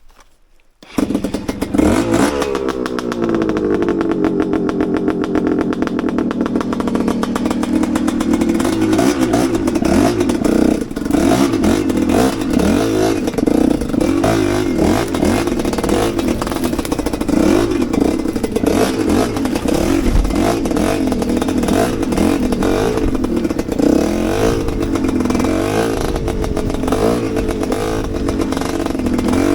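Enduro dirt bike engine starting about a second in, its revs dropping back over the next few seconds, then running steadily with the revs rising and falling.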